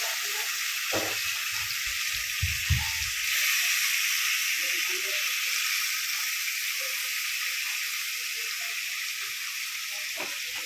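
Marinated paneer, capsicum and onion sizzling in hot oil in a small kadai, a steady frying hiss, with a few low thumps about one to three seconds in as the pieces are scraped into the pan.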